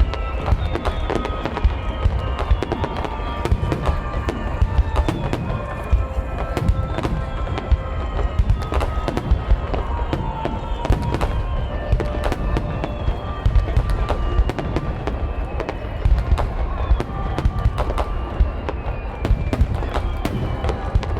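Fireworks shells bursting in a dense, continuous barrage, with many sharp cracks over a deep rumble. Music plays alongside.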